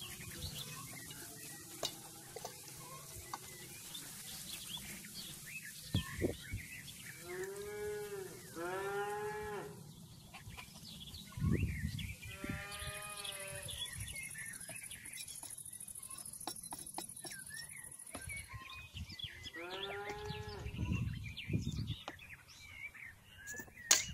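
Cattle lowing: four drawn-out moos, two close together about eight seconds in, another a few seconds later and the last near twenty seconds, with small birds chirping throughout.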